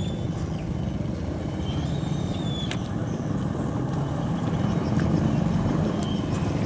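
Mitsubishi Canter truck's diesel engine running steadily, with a few faint high chirps over it.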